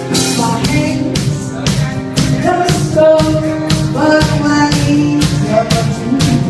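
Band playing a pop song, with percussion keeping a steady beat under a melody line.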